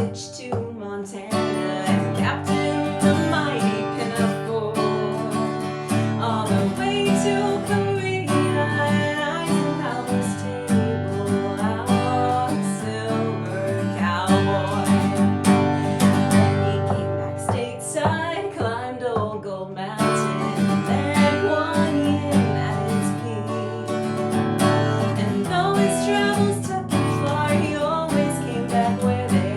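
Strummed acoustic guitar with a singing voice: a folk/Americana song.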